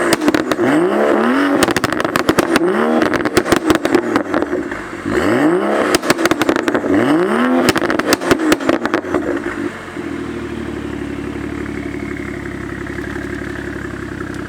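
Exhaust of a BMW X5 running a catless downpipe straight into a Vibrant Performance 10632 muffler. The engine is blipped in a series of quick revs, each rising and falling, with crackling pops between them. About ten seconds in it drops back to a steady idle.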